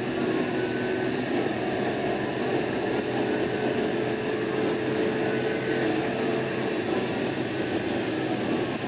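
Patrol car under way: steady road and engine noise, with a siren wailing faintly over it, rising and falling every two to three seconds.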